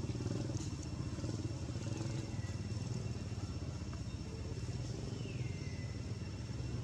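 An engine running steadily with a low, even hum. Two faint falling high-pitched calls come through, about two seconds in and again near five seconds.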